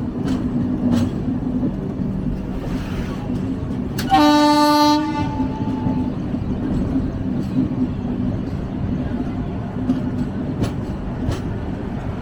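Passenger express train running: steady rumble and clatter of wheels over the rails, with a single locomotive horn blast about a second long, four seconds in.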